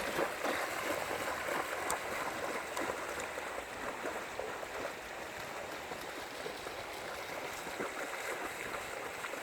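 Mountain valley stream flowing over rocks, a steady rushing wash of water.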